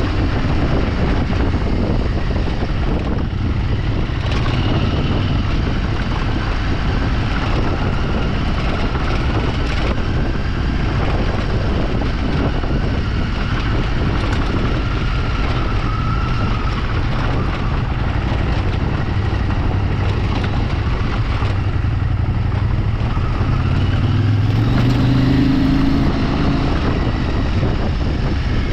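A vehicle under way off-road: steady engine hum buried in heavy road and wind noise. The engine note rises briefly near the end as it speeds up.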